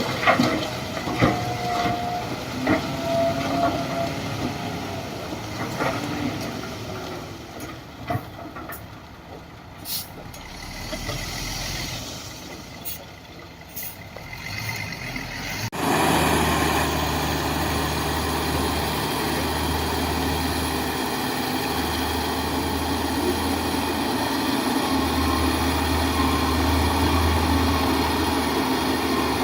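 Heavy diesel construction machinery at work: scattered clanks and a brief squeal in the first half, then about halfway through a loud steady diesel engine sound suddenly takes over.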